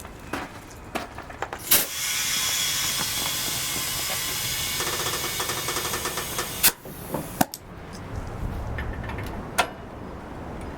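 Compressed air hissing steadily through an air chuck into a garden tractor tire for about five seconds, with clicks and knocks of the chuck and hose before and after.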